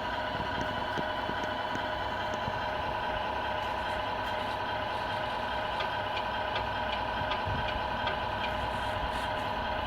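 RC Scania R470 model truck running steadily, a constant engine-like hum with a low rumble and a few faint ticks.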